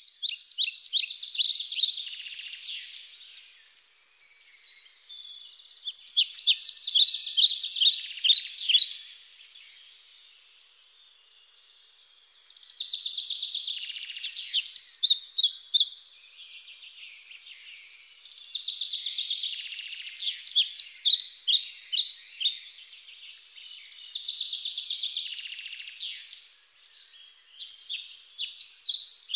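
Birds calling in repeated bursts of rapid, high chirping, several voices overlapping. The loudest bursts come about six to nine seconds in and again around fifteen seconds.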